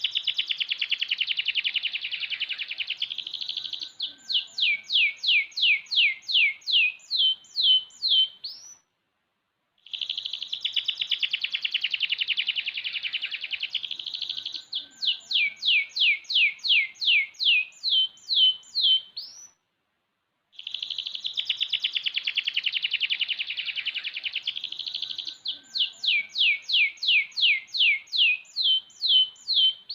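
Young domestic canary, six months old, singing the same song phrase three times: a fast buzzing trill followed by a run of quick downward-sweeping whistled notes that speed up and end on a short rising note, with about a second of silence between phrases.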